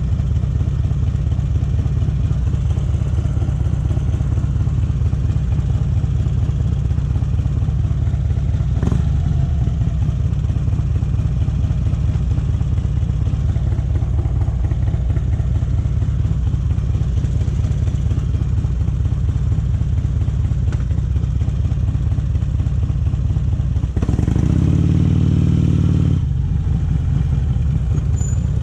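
Harley-Davidson Electra Glide V-twin with Vance & Hines exhaust pipes running steadily under way, a low engine note. About 24 seconds in it turns louder, with a clearer, pitched note, for about two seconds.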